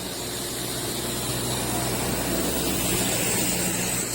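Road traffic noise: a motor vehicle's engine running nearby with a steady low hum and a wash of road noise, growing louder over the first few seconds.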